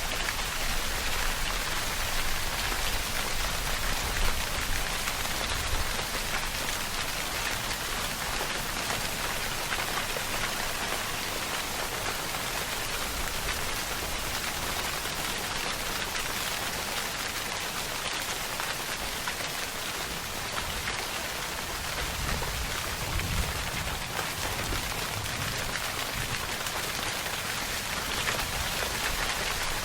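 Steady rain falling, a dense even hiss of drops on surfaces, with faint low rumbling swells now and then.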